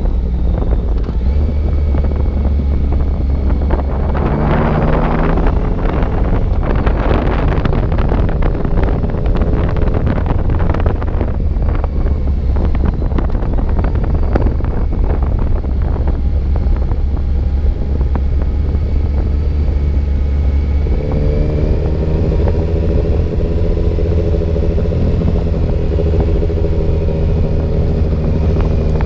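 Motorcycle engine running under way, heard from the bike with wind buffeting the microphone; the engine note climbs about four seconds in and holds a steady note through the last third.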